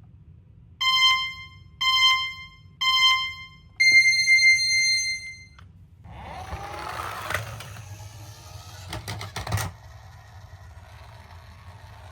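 An electronic start countdown: three short beeps about a second apart, then one longer beep an octave higher. Then a rattling, clattering run of toy vehicles down a slope, with several sharp clicks, lasting about three and a half seconds.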